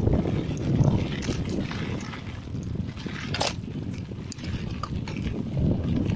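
Mountain bike rolling along a dirt trail: a steady low rumble of wind and tyres on the microphone with scattered small rattles and clicks, and one sharper click about three and a half seconds in.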